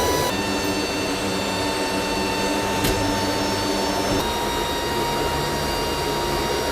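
C-130J Super Hercules turboprop engines running steadily: a constant drone with a high held whine. The sound shifts abruptly twice, about a third of a second in and about four seconds in.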